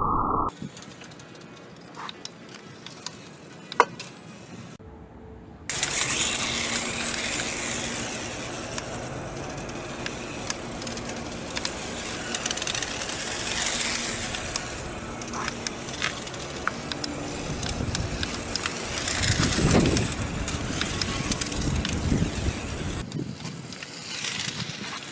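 Small radio-controlled toy motorcycle running: a faint steady electric-motor hum under tyre and surface noise. It is quiet with a few sharp clicks at first, then louder from about six seconds in, with a louder surge a little before the end.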